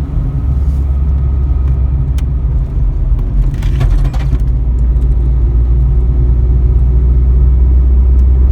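A car being driven: a steady low engine hum with road noise, with a brief hiss about three and a half seconds in.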